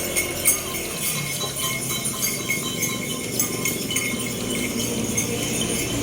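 Young cemblek sawah songbird calling in a run of rapid, high, thin chirps and ticks. It is a juvenile practising its song, not yet giving the full buzzing 'ngebrem' song.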